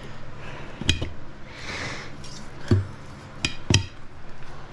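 Metal tire irons clinking against a motorcycle's wheel rim while levering the tire off: four sharp clinks that ring briefly, the last two close together, with a short scrape between them.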